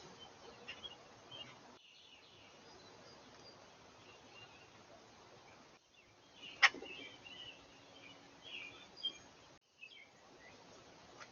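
Faint bird chirps over a steady outdoor hiss, with one sharp click about six and a half seconds in. The sound breaks off briefly three times.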